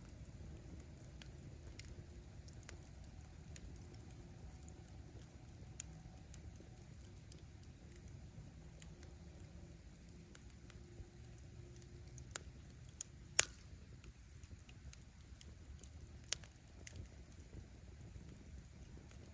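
Wood bonfire burning with a low steady rumble of flame and scattered crackles of firewood popping; one sharp pop stands out about two-thirds of the way through, with a few lesser snaps around it.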